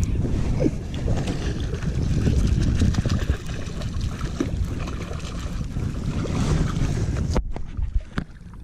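Wind buffeting the microphone, a loud low rumble with crackle; it cuts off abruptly about seven and a half seconds in and comes back weaker.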